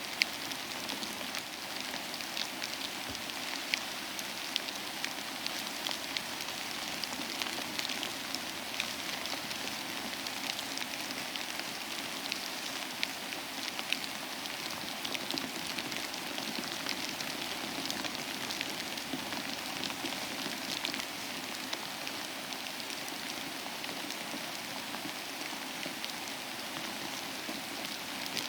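Steady rain falling, an even hiss with many distinct drop ticks scattered through it.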